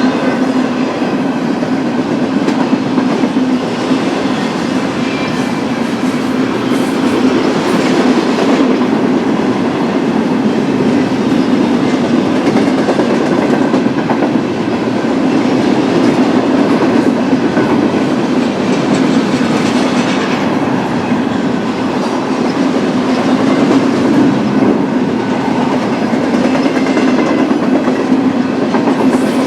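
BNSF double-stack intermodal freight train rolling past: a steady rumble and hum of the cars on the rails, with occasional clicks over the rail joints.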